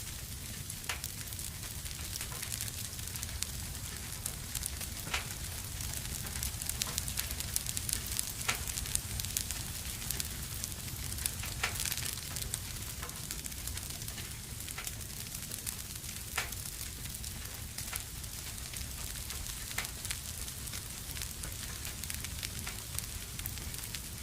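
Wood fire burning in a fireplace: a steady hiss with irregular sharp crackles and pops, busier for a few seconds in the middle, over a low rumble.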